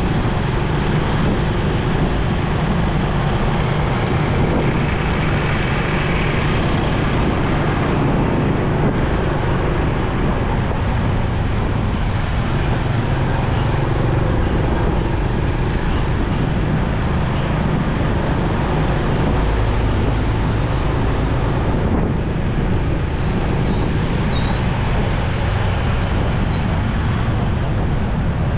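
Motorcycle engine running while riding, with steady road and wind noise and the sound of surrounding traffic. The engine note shifts a little in pitch from time to time.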